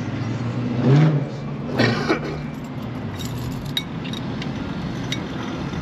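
Steady low hum of an idling vehicle engine, with two brief louder sounds about one and two seconds in and a few light clicks after.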